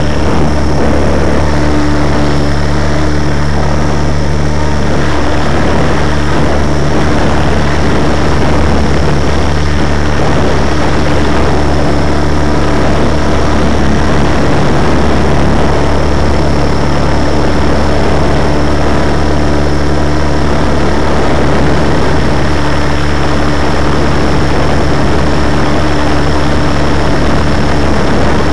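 Radio-controlled model helicopter's rotor and drivetrain running steadily, heard up close from a camera mounted on the machine itself: a constant low hum with a steady high whine over it.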